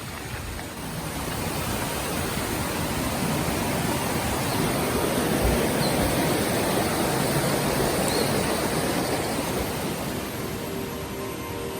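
Rushing water of a waterfall or jungle stream, a steady hiss that grows louder toward the middle and eases off again.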